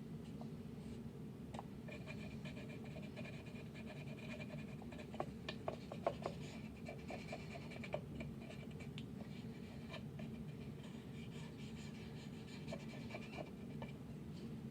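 Paint marker squeaking and scratching on a plastic toy fridge as it is coloured in, with faint small taps, over a steady low room hum.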